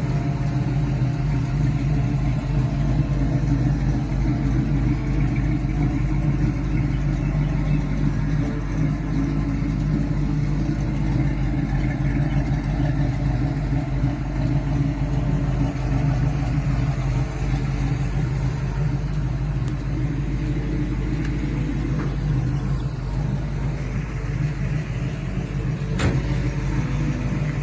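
Chevrolet 350 small-block V8 with a mild cam, in a 1967 Camaro Super Sport, running at a steady idle. A single sharp click comes near the end.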